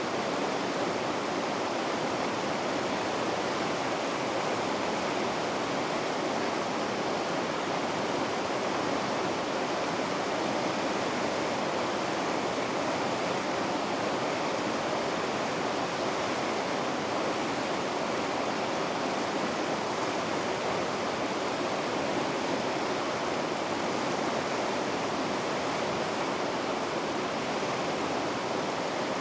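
Water rushing over river rapids, a steady, unbroken noise that stays even throughout.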